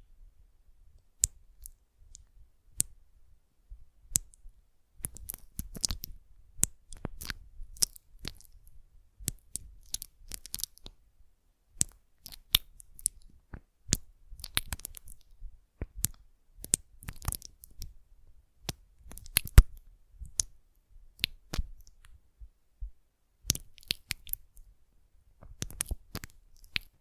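Close-miked ASMR tactile sounds: irregular sharp clicks and short crinkly crackles from objects being handled, coming in clusters with brief pauses between them.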